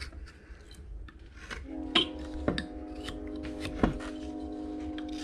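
A train horn sounding one long, steady chord of several notes, starting a little under two seconds in. A few sharp clicks of a carving knife cutting wood come over it.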